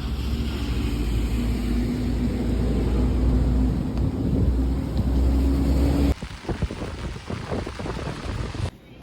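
Subway train running: a loud low rumble with a steady hum. About six seconds in it changes abruptly to a quieter, more uneven rumble.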